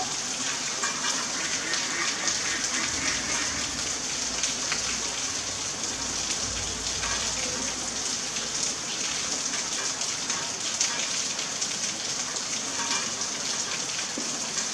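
Rain falling steadily: a continuous hiss of many drops.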